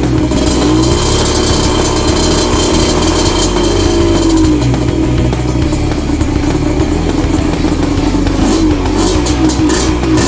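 Suzuki TS 125 two-stroke single-cylinder engine, tuned, being revved: the pitch climbs and holds, drops off midway, then goes up and down in several quick throttle blips near the end.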